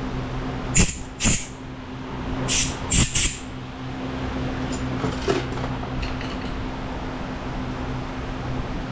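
A machine starts up and runs with a steady rushing hum. Sharp clanks come several times in the first few seconds, the loudest about a second in and at three seconds.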